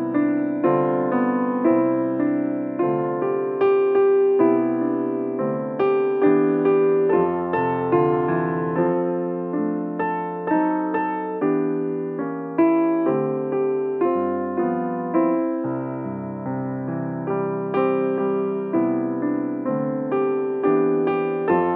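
Piano playing a slow run of chords, each struck chord dying away before the next.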